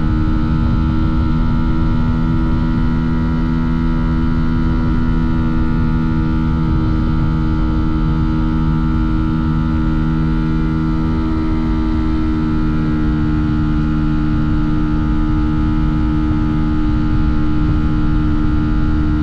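Fantic Caballero 125's single-cylinder four-stroke engine and exhaust under way, held at steady revs with an even, unchanging note.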